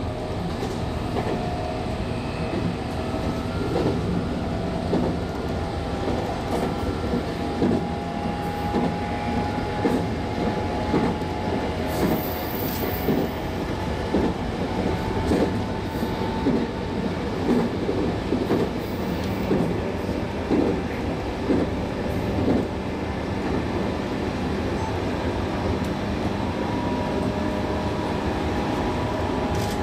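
An electric train running at speed, heard from on board: the wheels click over rail joints at a regular beat above a steady running rumble.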